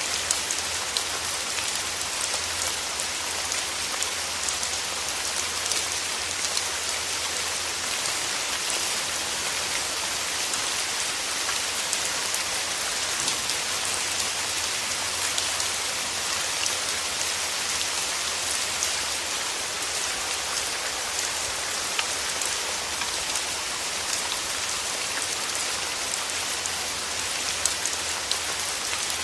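Steady rain falling on a surface, a constant hiss made of many fine drop ticks.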